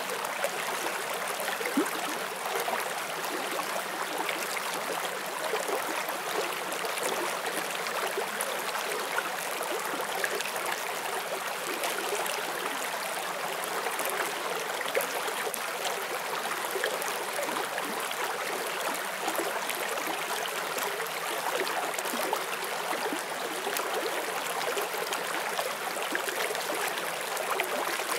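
Forest stream flowing over stones, a steady rush of water with light splashing and trickling.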